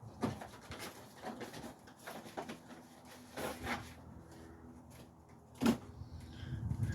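Handling of a new engine air filter and the plastic air box: scattered light rustles and clicks, with one sharper knock a little before six seconds in.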